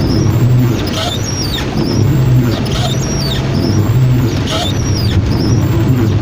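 Heavy rain with road traffic, and a short squeak that repeats about once a second over a low rhythmic swell.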